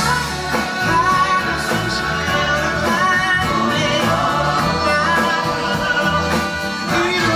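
Live music: a male vocal group singing in harmony over a backing band with a steady bass.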